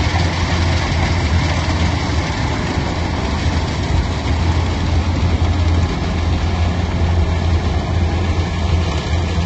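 Engine of a heavy machine running steadily at an even speed, with a strong low hum.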